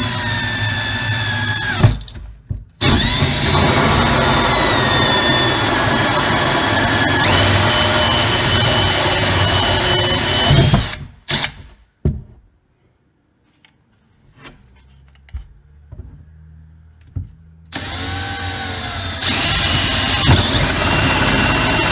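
Milwaukee M12 cordless drill spinning a hole saw through a cabinet panel, its motor whine dipping and shifting in pitch as the saw cuts. It runs in spurts: a short run, a brief stop, a long run of about eight seconds, then several seconds of pause with a few light knocks, and it starts again near the end.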